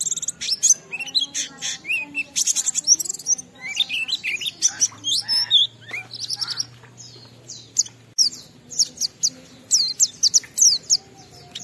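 White-eye (pleci) singing a long, rapid run of high chirps and quick downward-sweeping notes, with a short lull just before the two-thirds mark. This is the continuous varied song that keepers call ngalas.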